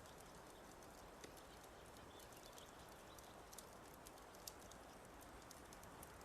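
Wood fire crackling softly: scattered sharp pops and ticks, a few a second, over a steady low hiss.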